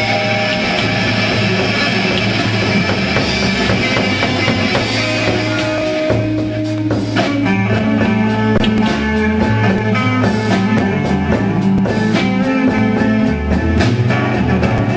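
Live rock band playing: held electric guitar notes over bass, with the drum kit coming in hard about six seconds in.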